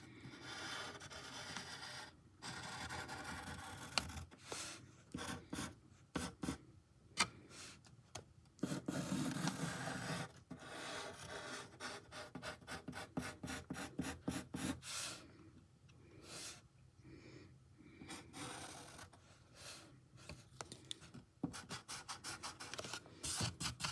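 Faint scratching of a drawing tool on paper in many short, irregular strokes with brief pauses between them.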